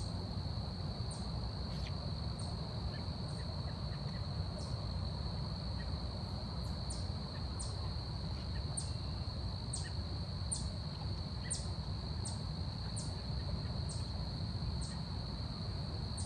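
Forest insects, cricket-like, keep up a steady high-pitched trill, with short sharp high chirps repeating unevenly about once or twice a second over a low steady rumble.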